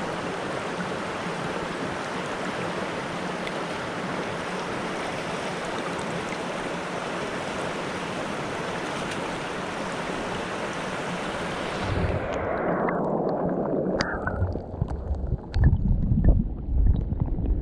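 Mountain stream water rushing steadily. About twelve seconds in, the sound turns muffled and low, with a rumble and scattered clicks.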